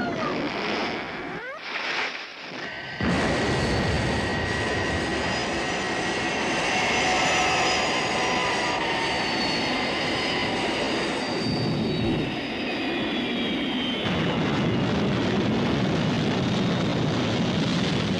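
Aircraft engines running with a loud, steady rushing and several slowly falling whines, steady from about three seconds in.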